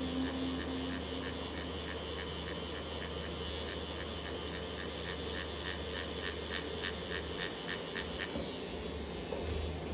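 Tattoo machine buzzing steadily, with a light ticking about four times a second. The buzz cuts out about seven seconds in.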